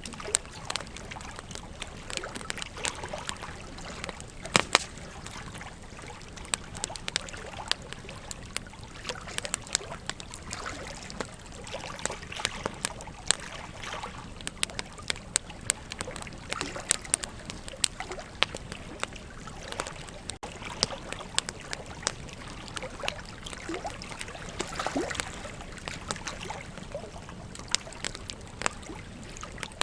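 Wood campfire crackling with irregular sharp pops, a few loud ones, over the steady rush of a flowing river.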